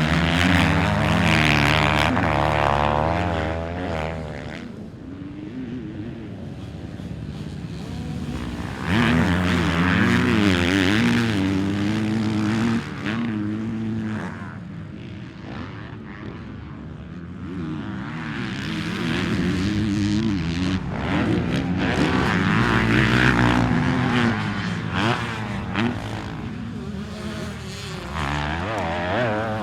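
Motocross bikes riding a track, engines revving up and dropping back repeatedly as the riders work the throttle, growing loud and fading several times as they come near and move away.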